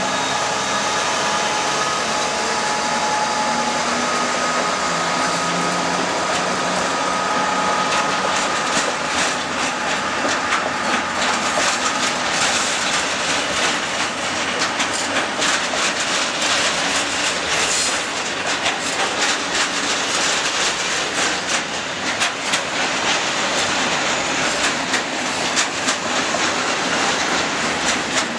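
Colas Rail Class 66 diesel-electric locomotive passing, with its two-stroke EMD engine's steady drone fading over the first several seconds. The loaded timber wagons follow, rolling past with a continuous rush and rapid clickety-clack of wheels over rail joints.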